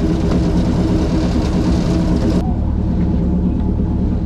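Airboat engine and propeller running steadily with a loud, low drone. About two and a half seconds in, the high hiss above it suddenly drops away while the drone carries on.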